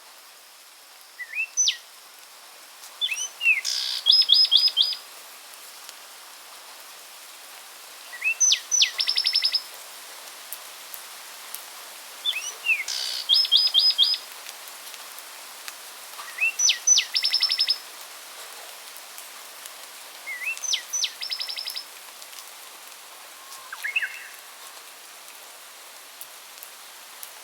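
A songbird repeating the same short song about every four seconds: a couple of rising notes, then a fast run of five or six high falling notes. The song comes six times, with a shorter fragment near the end, over a steady background hiss.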